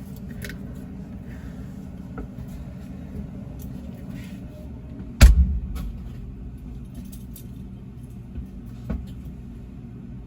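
A steady low hum, with one loud sharp knock about five seconds in and a lighter click near nine seconds.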